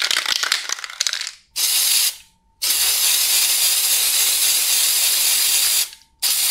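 Aerosol spray-paint can: a rattle lasting about a second and a half, then a short hiss of spray, a long steady hiss of about three seconds, and another brief hiss starting near the end.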